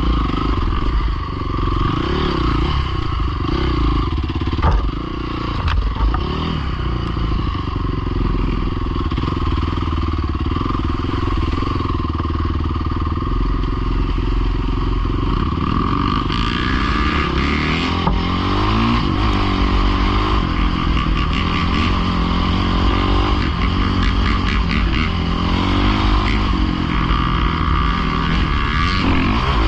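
Pit bike engine running under throttle while being ridden. It is fairly steady at first, then from about halfway its pitch rises and falls again and again as it is revved and eased off.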